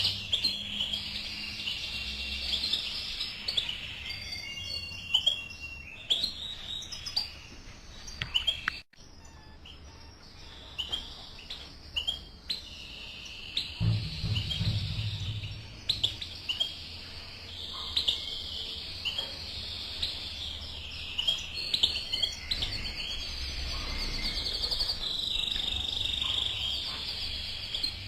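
Caged male canary and female European goldfinch chirping and singing: quick high trills and chirps, with a sudden brief break about nine seconds in.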